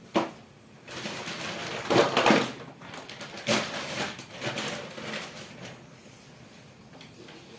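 Drawing strokes on paper: a few scratchy rubbing passes of several seconds, the loudest about two seconds in.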